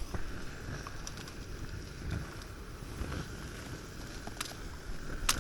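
Gusty wind buffeting the microphone as a low rumble, over a faint steady hiss, with a sharp click near the end.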